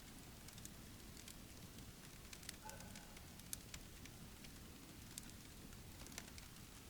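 Faint wood fire crackling in a small titanium wood stove, with irregular sharp pops over a low steady rumble.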